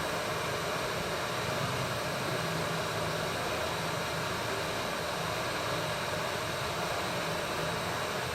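Hot-air rework station blowing steadily at 260 °C onto a chip whose solder has melted: an even hiss of rushing air with a faint low hum.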